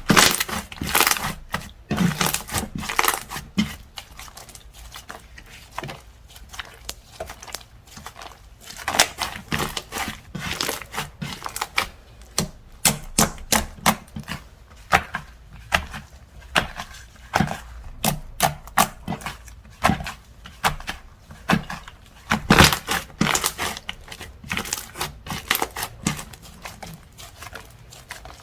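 Slime being squeezed, poked and pressed by hand, giving many irregular crackling clicks and pops that come in thicker clusters every few seconds.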